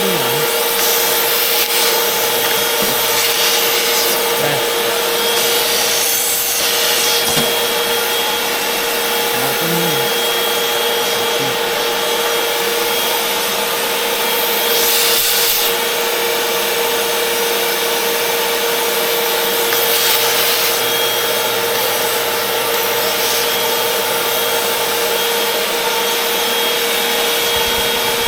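Vacuum cleaner running steadily with a constant motor whine while its nozzle scrapes and rubs over surfaces; the hiss of the airflow surges briefly a few times.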